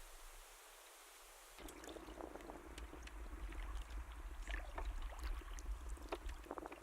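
Canoe paddles stroking through the water: repeated small splashes, drips and clicks, starting suddenly about a second and a half in.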